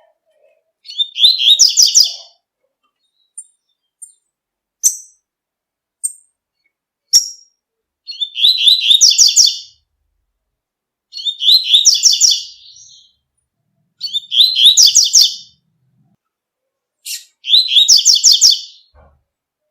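Double-collared seedeater (coleiro) singing its 'tui-tui' song: five short, high, rapidly repeated phrases a few seconds apart, with single sharp call notes between them.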